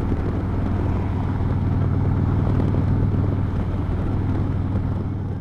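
Harley-Davidson V-twin touring motorcycle engine running steadily while riding, over a constant rush of road and wind noise.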